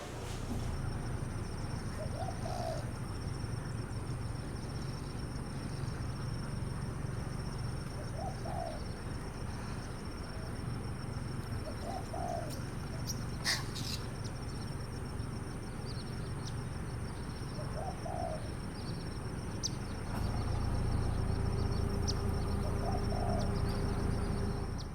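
Pigeon cooing: five short, soft, low calls spaced several seconds apart, over a steady low rumble.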